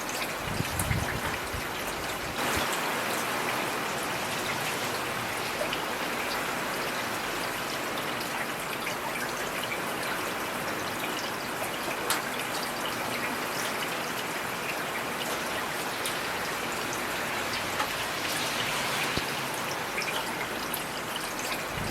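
Steady heavy rain, a dense hiss of falling water with scattered individual drop ticks. A brief low rumble comes about a second in.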